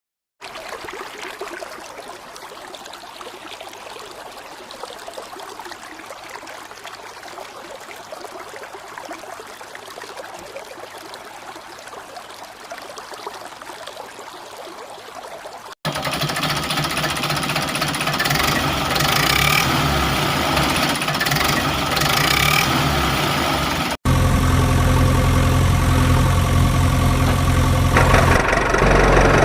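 A quiet, even hiss for about fifteen seconds. It then cuts suddenly to a tractor engine running steadily, which jumps louder again at a second cut, where it has a strong low hum.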